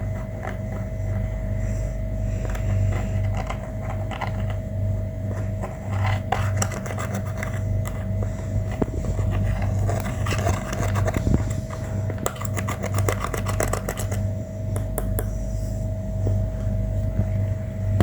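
Slime being mixed and squished by hand, giving clusters of small wet clicks and crackles, thickest in the middle of the stretch, over a steady low hum.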